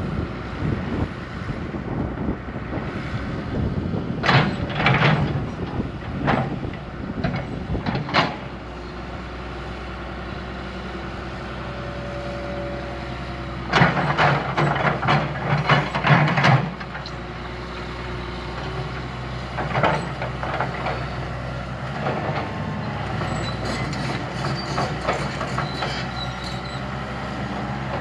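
Diesel engine of heavy earthmoving machinery running steadily, with repeated knocks and scraping from the machine working the ground. A louder run of knocks and scrapes comes about halfway through.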